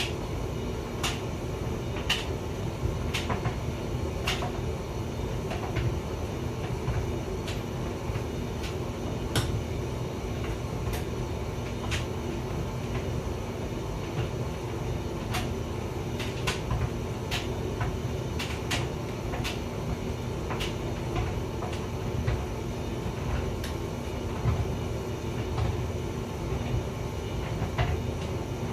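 Hotpoint vented tumble dryer running: a steady low rumbling hum from the turning drum, with sharp clicks and knocks at irregular intervals, roughly one a second at times, as the load tumbles inside.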